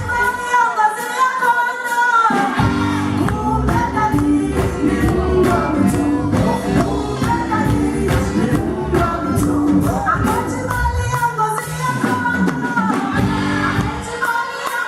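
Contemporary gospel music: a band with a bass line and regular percussion, and several voices singing together in harmony.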